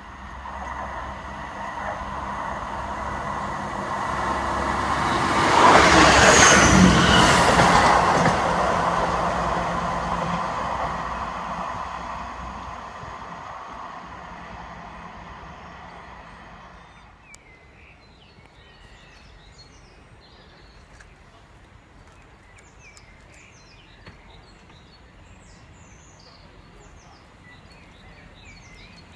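Diesel train approaching and running past close by, the engine and wheels on the rails swelling to a peak about six seconds in, then fading away. After it cuts off, birds chirping.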